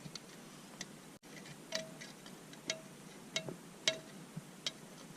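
Faint, irregular light clicks and taps on a hard object, several with a brief ringing note.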